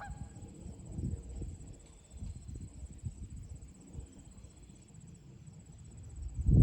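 A steady, high-pitched insect trill under gusty low wind noise, with the wind loudest near the end. A brief bird chirp sounds right at the start.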